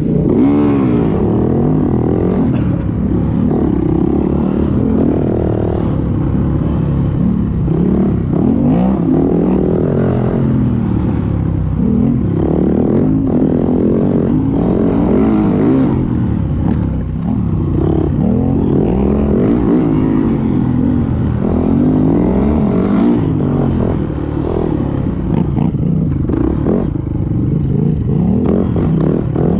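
Yamaha WR450F dirt bike's single-cylinder four-stroke engine revving hard and backing off over and over while riding. Its pitch rises and falls every second or two.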